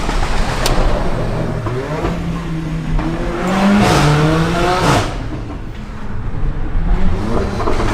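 Car engine accelerating, its pitch rising for about two seconds before dropping suddenly about five seconds in, then building again near the end. A sharp crack comes about a second in.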